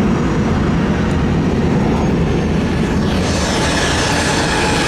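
Jet airliner passing the airport, a steady low engine rumble, with a high engine whine coming in about three seconds in and slowly falling in pitch as the plane goes by.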